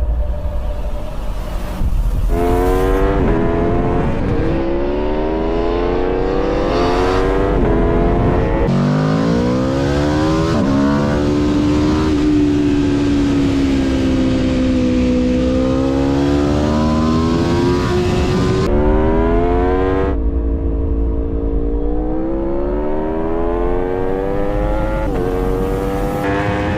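A motorcycle engine accelerating hard through the gears. The pitch climbs and then drops at each shift, over and over, with a steadier stretch of cruising in the middle.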